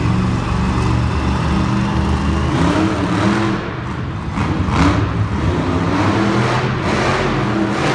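Monster truck engine revving, its pitch rising and falling several times over a steady low rumble.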